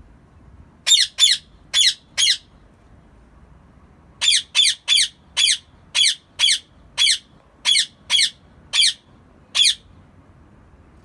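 Ring-necked parakeet giving a series of short, shrill screeches: four quick calls, a brief pause, then about eleven more at a steady pace of roughly two a second.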